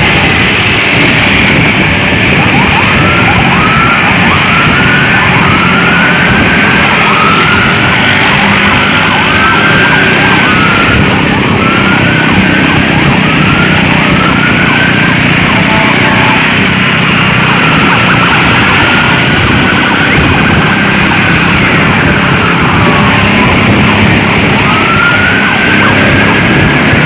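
Electronic emergency vehicle siren, first cycling through quick rising yelps, then switching about ten seconds in to slower rising-and-falling wails, over a steady heavy roar of road noise.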